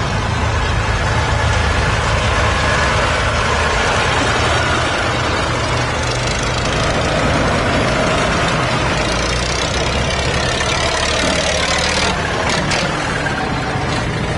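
Tractor engines running steadily, with a couple of short clicks near the end.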